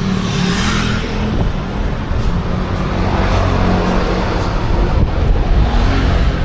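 Busy road traffic: a steady engine rumble with vehicles passing close by, one swelling past near the start, another a little past the middle and a third near the end.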